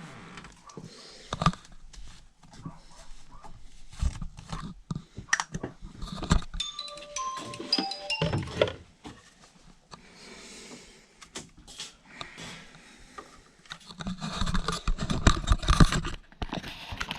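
Metal clanks, clicks and scraping from an HVAC unit's grille being handled and fitted back on, with a denser rattling stretch near the end. A short run of falling tones sounds in the middle.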